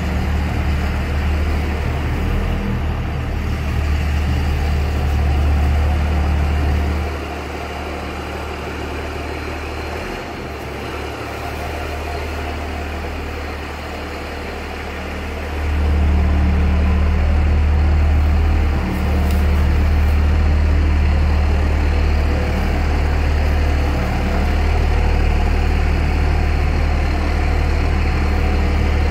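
Dodge Ram 2500's Cummins turbo-diesel engine idling through a 4-inch AFE exhaust, a steady deep rumble. It drops quieter for about eight seconds in the middle, then comes back louder.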